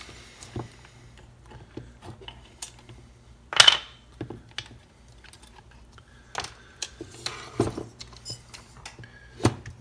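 Scattered light metal clicks and clinks as a new cylinder is worked down over a chainsaw piston and ring compressor, with one louder clink about three and a half seconds in.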